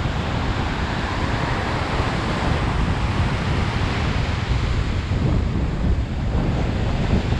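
Gusty wind buffeting the microphone over the steady wash of surf, from the storm winds and rough water ahead of a hurricane.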